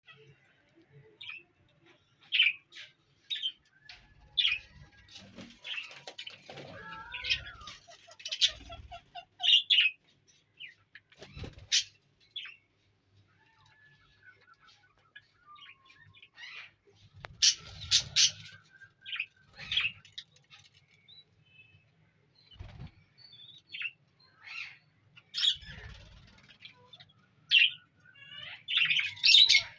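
Small parrots in a breeding colony, budgerigars and lovebirds, giving short, sharp chirps in irregular scattered bursts, now single calls, now quick clusters, with a few low thumps mixed in.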